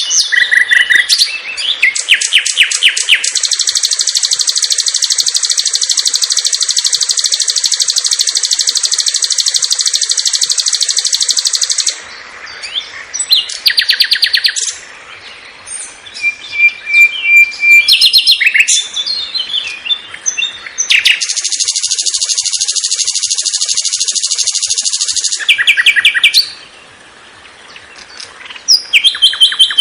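Long-tailed shrike (cendet) singing a song full of mimicked calls: two long, even, high buzzy trills of several seconds each, separated by short chirps and whistled notes.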